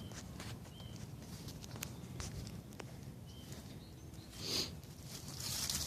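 Faint footsteps with light clicks and rustles over a low outdoor rumble, with two brief high chirps and a louder rustle about four and a half seconds in.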